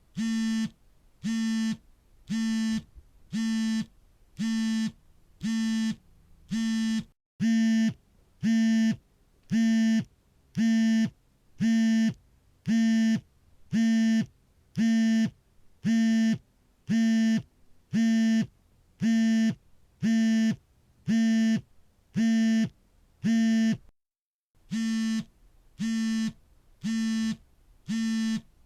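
Smartphone vibration motor buzzing in a steady, even rhythm of short pulses, a little more than one a second, the pattern of an incoming call. The buzz has a low, steady pitch.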